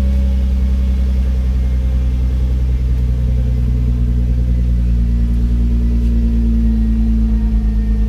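Nissan GT-R (R35) twin-turbo V6 engine droning under a steady cruise, its low note rising slowly in pitch as the car gently gains speed.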